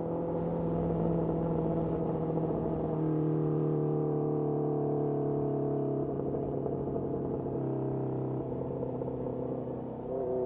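Honda CBR650R's inline-four engine through a Mivv MK3 carbon exhaust, running at a steady cruise with light throttle. Its pitch sags slowly over the middle and shifts a little twice, then dips briefly near the end before picking up again.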